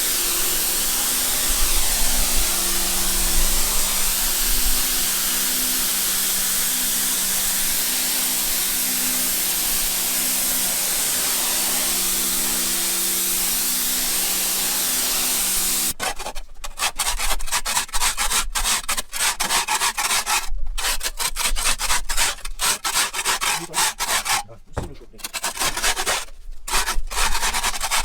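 A steady spraying hiss with a low motor hum underneath, which cuts off abruptly about halfway through. Irregular scraping and scrubbing strokes follow, as of a tool working over a wooden surface while cleaning a bird enclosure.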